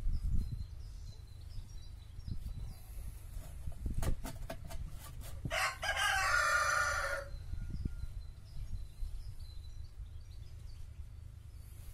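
A rooster crows once, about halfway through, in one call lasting under two seconds. A few sharp knocks come just before it, over a low rumble.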